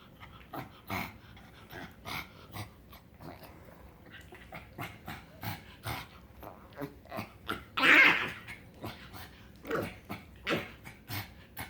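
A pug making a run of short, irregular grunting noises with one louder call about eight seconds in: the strange sounds this pug makes when he is happy.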